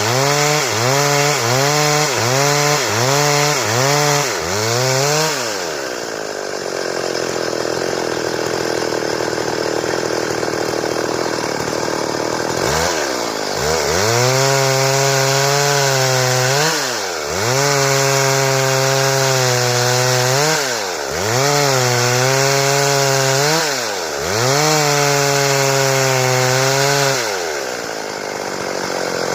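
Stihl two-stroke chainsaw. It is revved in quick, repeated blips at first, then the engine note gives way to a steady rasp for about seven seconds as the chain works through the board. After that it is held at high revs, with the throttle let off briefly several times.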